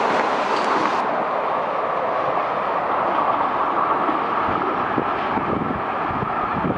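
Metro-North M7A electric train passing through at express speed: the rushing wheel-and-rail noise of the last car going by, its hiss dropping away about a second in, then a steady rushing noise that eases slowly as the train pulls away.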